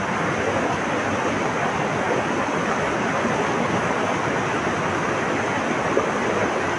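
Flowing water rushing steadily, an even unbroken sound with no birdsong heard.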